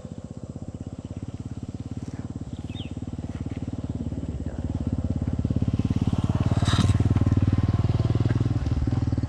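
A vehicle engine running with a rapid, even low pulse, growing louder about five seconds in.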